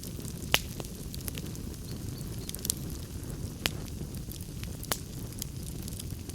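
Wood fire crackling in a fireplace: irregular sharp pops and snaps over a steady low rumble of the flames, the loudest pop about half a second in.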